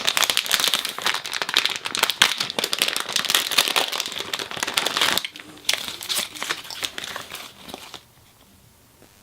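Plastic packaging crinkling and crackling as it is handled and opened, dense for about five seconds, then sparser, stopping about eight seconds in.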